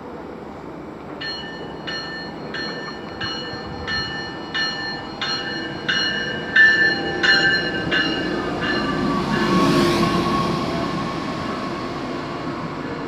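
Stadler diesel light-rail railcar pulling into a station. Its warning bell rings about once every 0.7 s, louder as the train comes nearer. The bell stops, and the diesel engine and wheels swell as the railcar draws up alongside, with a slowly falling whine as it slows.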